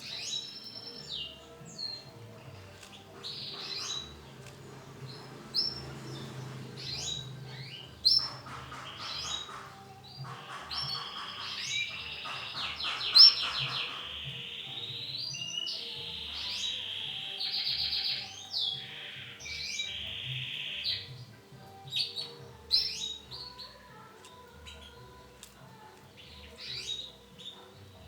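Canaries calling and singing: short, high chirps throughout, with a long stretch of rapid trills in the middle.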